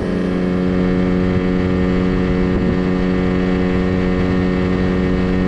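A 9.8 hp outboard motor running steadily at high revs under way, a constant hum with water and wind noise.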